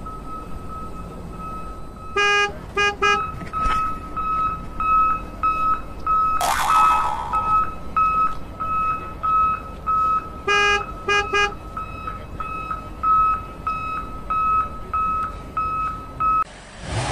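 Electronic beeping of a toy JCB construction vehicle: a steady high beep repeating about every two-thirds of a second, like a reversing alarm. Twice there are three short horn-like toots, and a brief rushing sound comes about six seconds in.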